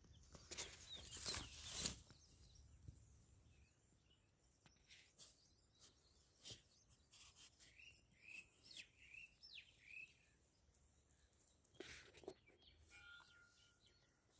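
Faint bird chirps over a near-quiet background, a short run of quick rising-and-falling calls about eight seconds in. Brief rustling or scraping noises, the loudest sounds here, come near the start and again about twelve seconds in.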